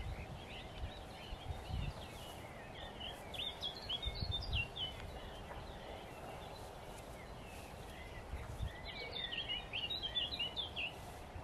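A songbird singing quick twittering phrases in two bouts, about three seconds in and again near the end, over steady outdoor background noise with a few low thumps.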